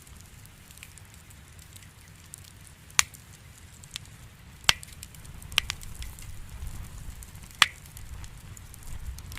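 Wood campfire burning, with a low steady rumble of flame and sharp pops and crackles from the burning logs: four loud pops, the loudest late on, and fainter crackles between.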